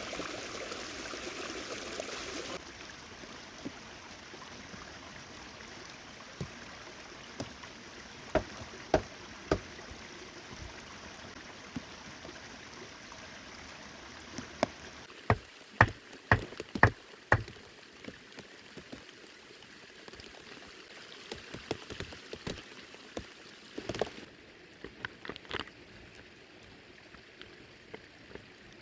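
Steady rain hiss with scattered sharp knocks and taps, including a quick cluster of louder knocks about halfway through. It opens with a couple of seconds of louder rushing water that stops abruptly.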